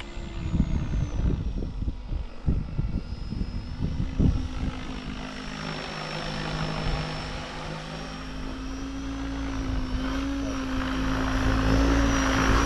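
Electric RC helicopter coming in to land: a steady rotor drone with a high whine over it, growing louder toward the end. Wind buffets the microphone in the first few seconds.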